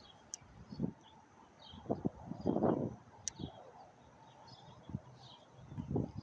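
Birds chirping in short repeated calls, with a few low rustling thumps close by, the loudest about two and a half seconds in.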